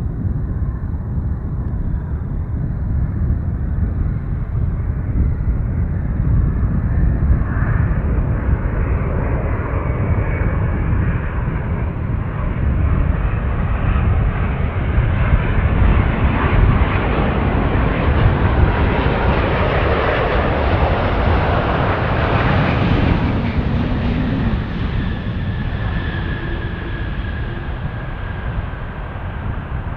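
Wide-body jet airliner passing on landing approach: the engine noise builds to a peak about two-thirds of the way through, then eases off with a falling whine as the aircraft moves away.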